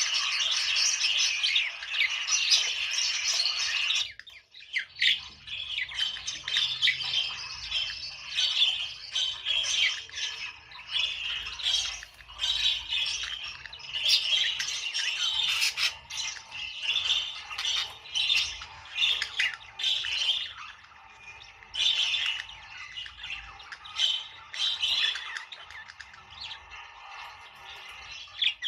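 Budgerigars chattering: a dense chorus of chirps and warbles that thins about four seconds in to a run of separate short, high calls.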